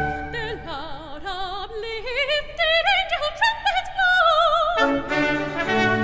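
Operatic soprano singing a solo line with wide vibrato that climbs in pitch, over near-silent accompaniment; the full symphony orchestra comes back in just before the end.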